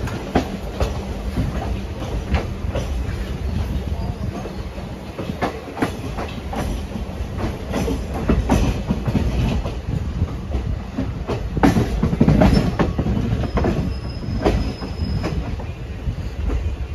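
Train running heard from on board a passenger coach: a steady rumble, with the wheels clattering irregularly over rail joints and points. A faint, thin, high wheel squeal comes in about two-thirds of the way through.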